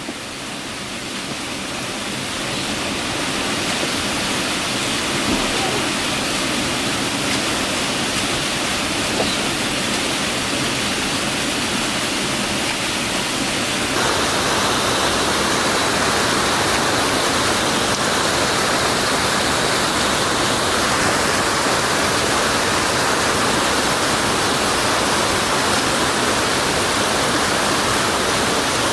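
Rushing water, a loud, steady noise that changes character about halfway through, as from a different stretch of the flow.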